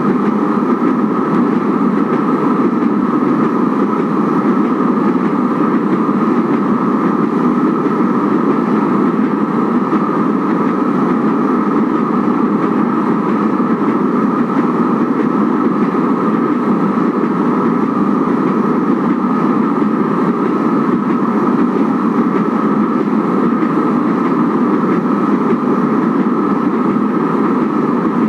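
Kinki Sharyo–Nippon Sharyo light rail train of Manila's LRT Line 1 running steadily between stations: a loud, unchanging noise of wheels and traction motors.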